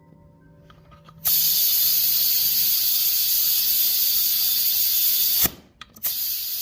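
Compressed air hissing through an air chuck into a tractor's front tire as it is aired up to seat the bead. The hiss stops, starts again about a second in, cuts off about five and a half seconds in, and comes back briefly near the end.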